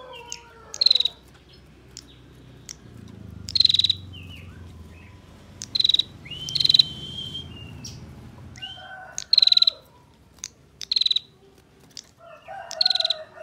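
Female prinia (prenjak) giving short, rapid rattling calls, about seven separate bursts. A domestic fowl calls twice in the background, near the middle and near the end.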